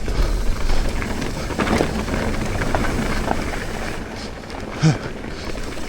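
A mountain bike descending fast singletrack: wind rushing over the microphone and tyres rumbling on dirt, with scattered rattles and clicks from the bike. A short thump comes about five seconds in.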